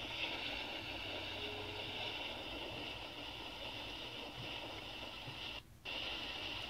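Freight train's covered hopper cars rolling past, heard as a steady rumble and hiss from a railcam's live audio played through a computer speaker. The sound cuts out completely for a moment near the end.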